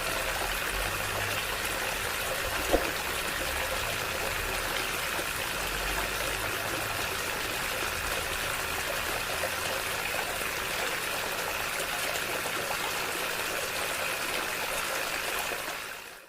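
Steady stream of water running from a small DC-motor water pump, with one short click about three seconds in.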